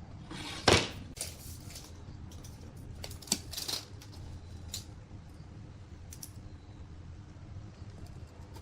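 Workshop handling noises: one loud knock about a second in, then a scattering of sharper clicks and taps over a low steady hum.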